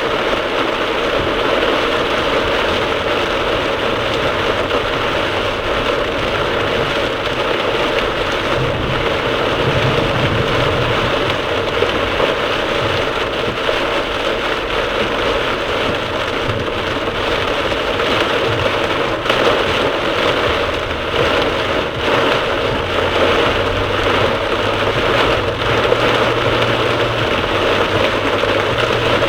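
Torrential rain pouring on a moving car's roof and windscreen, heard from inside the cabin as a dense, steady hiss, with the car's engine and road noise low underneath.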